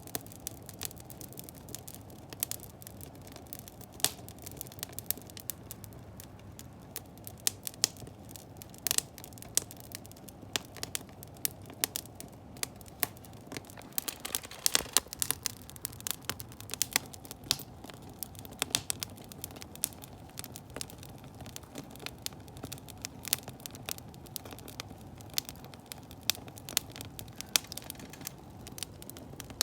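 Firewood burning to heat a wood-fired bath, crackling and popping irregularly over a steady low rush of flame.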